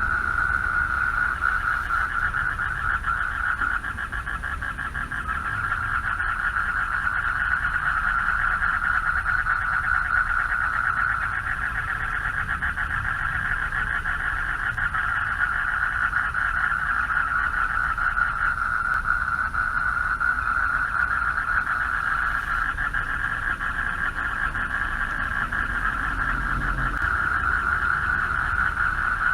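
A chorus of male frogs giving mating calls from a pond: a continuous, densely pulsed trilling at one steady pitch, with a low rumble underneath.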